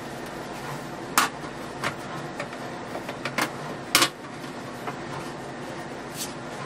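Household items handled during cleaning: a handful of sharp clicks and knocks, the loudest about a second in and again about four seconds in, over a steady background hum.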